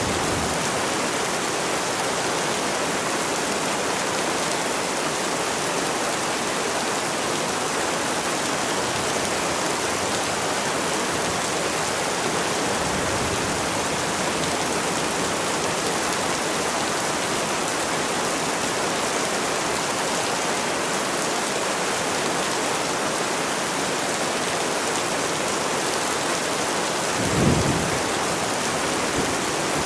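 Steady rain falling, with a short low rumble of thunder near the end and a fainter one about halfway through.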